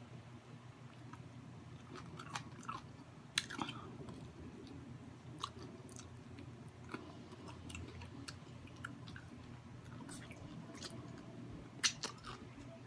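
Close-miked chewing of crispy fried chicken, with scattered crisp crunches; a sharper crunch comes about three and a half seconds in and another near the end.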